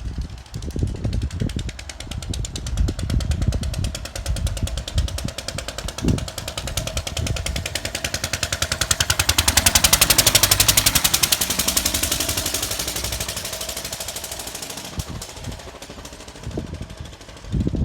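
Lister stationary engine running with a rapid, even exhaust beat that swells to its loudest about halfway through, then fades. Low gusts of wind on the microphone are heard in the first half.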